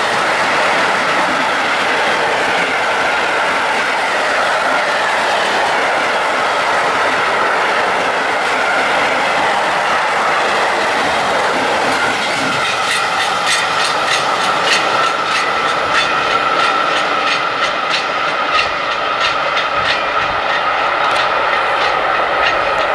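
A long freight train of empty flat wagons rolling past at speed: a steady rumble and hiss of wheels on rail with a high whine underneath. From about halfway through, rapid clicking as the wheels pass over the rail joints.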